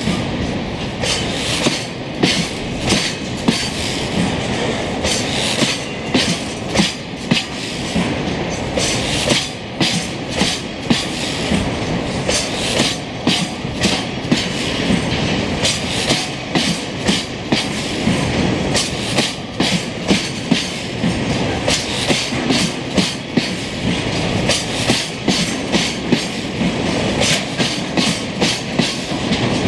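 Freight train of Taki 1000 oil tank wagons rolling past: a steady rumble of wheels on rail, with frequent clickety-clack clicks as the wheels cross rail joints.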